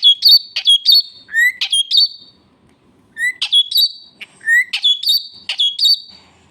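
Pet parrot calling loudly: a string of sharp, rising chirping calls over about two seconds, a pause of about a second, then another string of calls.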